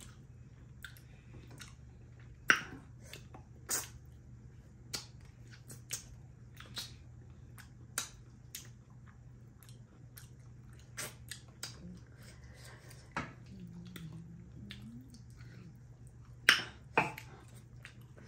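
Close-up mukbang eating sounds from two people eating fried fish and pork with their hands: irregular wet chewing, lip smacks and mouth clicks, with two louder smacks near the end.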